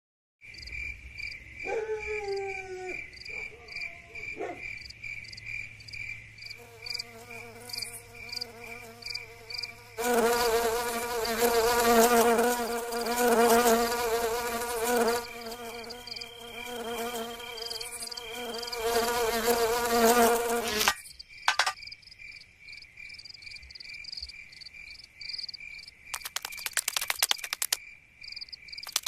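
Cricket chirping steadily, a few high chirps a second, under cartoon insect sound effects. A buzz with a wavering pitch comes in and grows loud for about ten seconds before stopping abruptly, and rapid clicking follows near the end.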